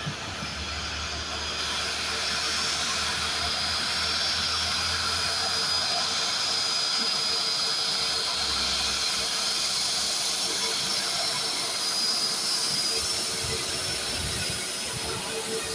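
Airbus A320's jet engines running with a steady hiss and a thin high whine, building slightly over the first few seconds and then holding.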